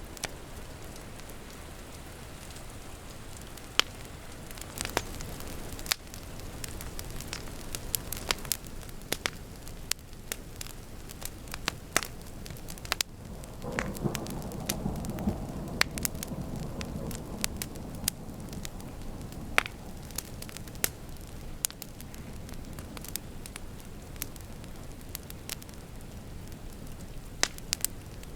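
Wood fire crackling, with sharp pops scattered throughout, over a steady hiss of rain. About halfway through, a low rumble of thunder swells for a few seconds.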